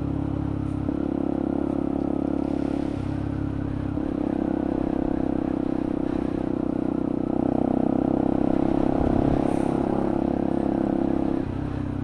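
Benelli TNT 125's small single-cylinder engine running at a steady pitch while the bike is ridden, its sound swelling and easing several times as the throttle is opened and backed off. Wind and road noise lie under it.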